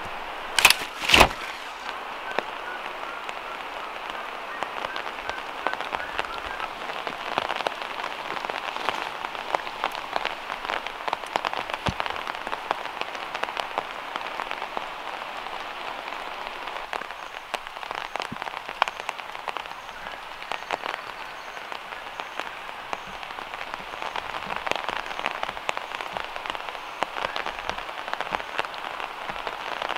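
Gentle rain falling and dripping from the trees, a steady wash of many separate drops. Two sharp knocks stand out about a second in.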